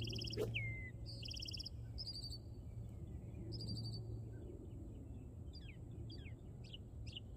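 Songbirds calling: a rapid trilled phrase repeated several times in the first half, then a run of short, quick downslurred chirps.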